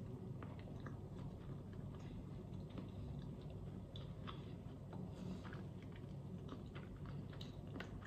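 Faint chewing of a bite of bread topped with red caviar, with scattered small wet mouth clicks.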